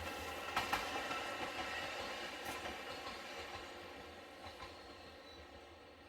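A passing vehicle's rushing rumble, with a couple of sharp clicks about half a second in, fading steadily away into the distance.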